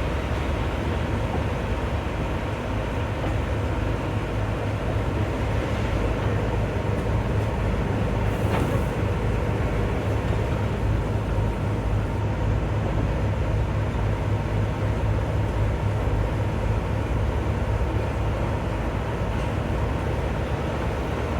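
A train running with a steady low rumble, and a single sharp click about eight and a half seconds in.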